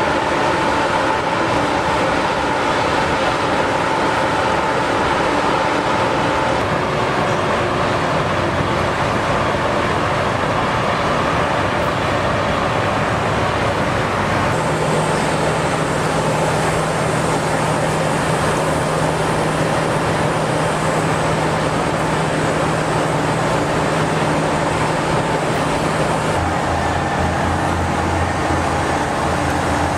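Steady, loud mechanical noise with a low hum, changing abruptly about halfway through and again near the end.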